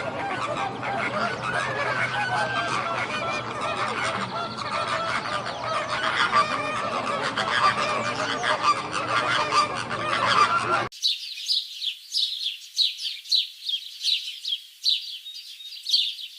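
A flock of birds calling all at once in a dense, honking chorus. About two-thirds of the way through it cuts off suddenly, and a small songbird takes over with quick, high chirps several times a second.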